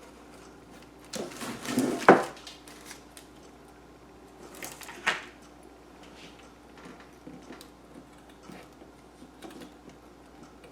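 Handling noises at a craft table: a clatter and rustle about a second or two in, ending in a sharp knock, and a shorter clatter about five seconds in, with light scattered taps between.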